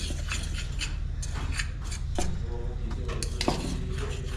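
Kitchen utensils and dishes clinking and scraping in a series of short irregular clicks, over a steady low hum.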